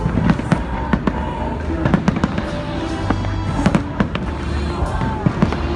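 Fireworks going off in a rapid, irregular string of sharp bangs, several a second, over loud music with a heavy bass.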